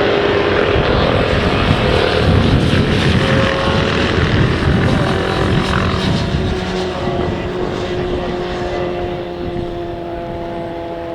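Motorcycle engine running at speed on the track, loudest a few seconds in and then slowly fading as it moves away.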